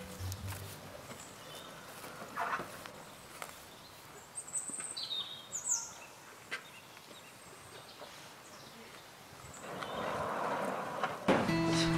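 Quiet outdoor field ambience with a few short bird chirps and scattered faint footfalls; near the end a longer rushing scrape as the wooden barn door is moved.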